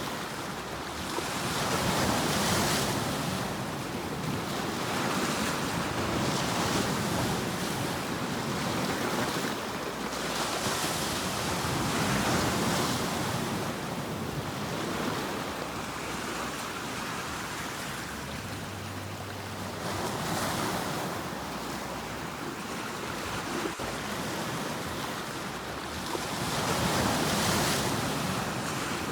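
Sea waves breaking and washing on a shore, the surf swelling and fading every few seconds, with the loudest wave near the end.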